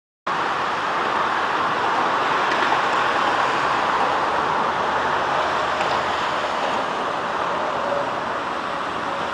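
Steady rushing noise of riding a bicycle outdoors, picked up by a compact camera's built-in microphone: wind and road noise without any clear engine or voice. It cuts in abruptly just after the start.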